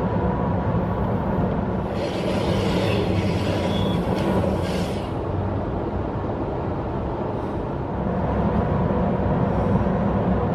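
Steady rumble of a passenger train running on the rails, heard from aboard. From about two to five seconds in, a higher hiss rises over it, with a brief thin squeal.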